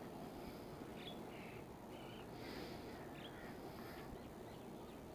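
Faint birds chirping a few times over a steady low hiss.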